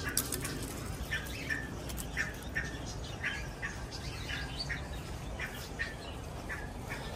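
Birds chirping, short bright calls repeating about twice a second.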